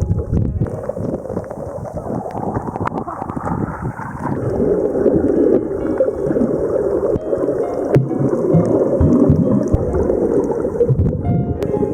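Water gurgling and sloshing around a kayak, a loud rough rushing that grows stronger about four seconds in, with faint music notes behind it.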